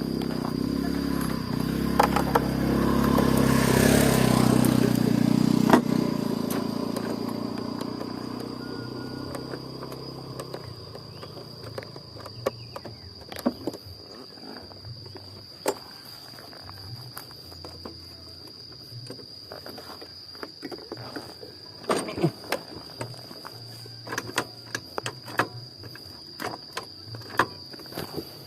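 A motorcycle engine running and fading away over the first several seconds. After that come scattered clicks and knocks over a steady high insect drone.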